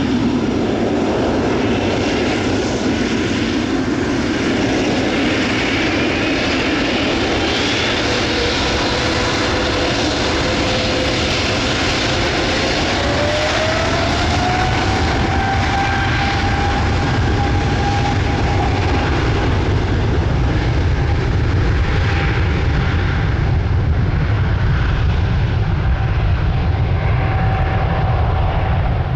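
Boeing 777F freighter's twin GE90 turbofans at takeoff thrust: a steady, loud jet roar with a whine that climbs in pitch around the middle and then holds, and a deep rumble that strengthens toward the end.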